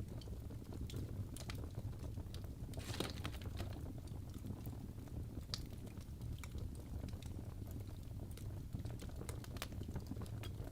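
Wood fire crackling in a fireplace: irregular sharp pops and snaps over a low steady rumble, with a brief flurry of crackles about three seconds in.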